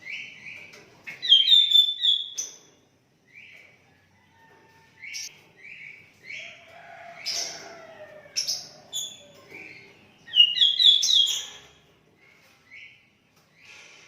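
Sooty-headed bulbul (kutilang) calling: short, bright whistled chirps in irregular phrases, with two louder rapid flurries, about a second in and again around ten seconds in.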